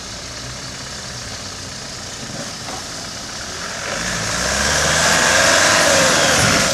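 Land Rover Defender engine running at low speed as the vehicle crawls through a muddy rut, getting louder and rising and falling in pitch from about four seconds in as it is revved to pull across.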